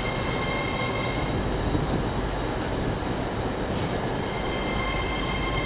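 A train running at a station platform: a steady rumble with a faint, steady high whine over it that fades a little partway through and comes back.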